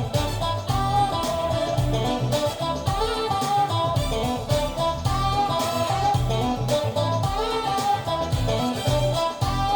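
Recorded music with a steady beat and bass line, played back over Wilson Audio Watt/Puppy 6 floor-standing loudspeakers and picked up in the room by a phone.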